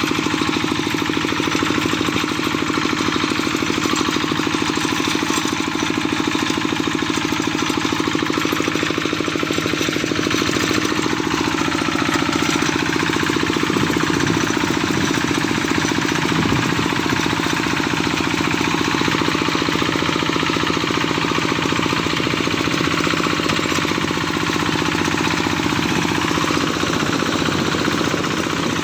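A small engine or machine running steadily with a fast, even pulsing, shifting pitch slightly about ten seconds in.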